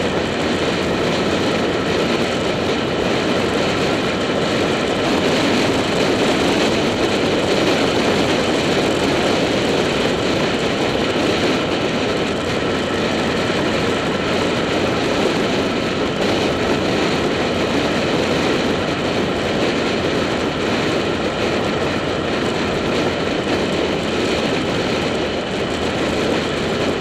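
Motorcycle cruising at a steady speed: constant wind rush over the action camera mixed with the engine's even running note, with no revving or gear changes.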